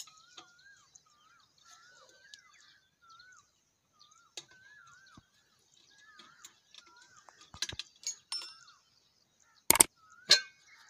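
A bird repeating a short wavy whistled call over and over, about one to two calls a second. Over it come a few sharp metallic clinks from tools and parts being handled on a stopped diesel engine, the two loudest near the end.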